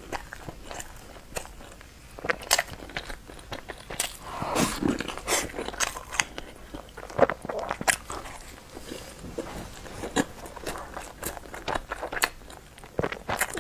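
Close-miked eating of soft bread: wet chewing with irregular mouth smacks and small crunches.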